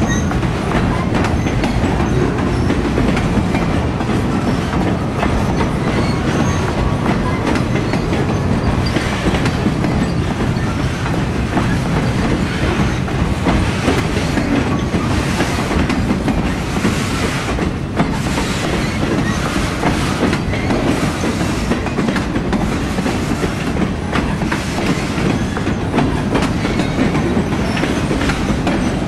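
Freight train of loaded flatcars rolling steadily past, with a constant rumble of steel wheels on rail and a running clickety-clack of wheels over the track.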